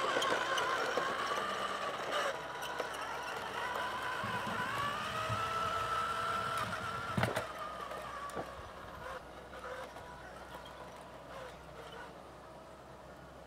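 Small electric motor and gearbox of an RC King Hauler dump truck (an 85-turn motor) whining as it drives, the pitch rising and falling with the throttle and the sound fading toward the end. A sharp click comes about seven seconds in.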